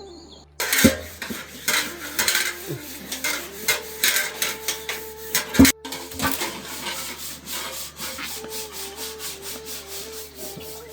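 Repeated rough scraping and rubbing strokes, irregular and sharp, starting about half a second in. A faint melody line, like flute music, runs underneath.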